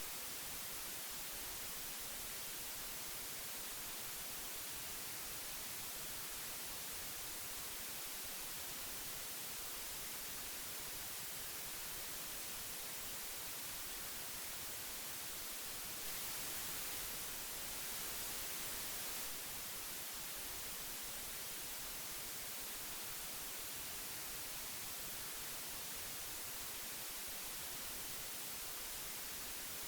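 Old magnetic tape hiss: a steady, even hiss strongest in the treble, which grows slightly louder and brighter for about three seconds a little past the middle.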